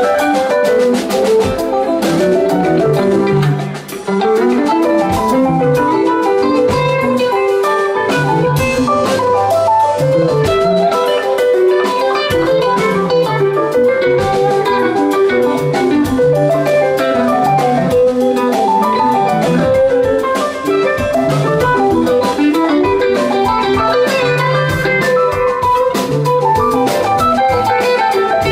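Live rock band playing an instrumental passage: electric guitars, bass and drum kit.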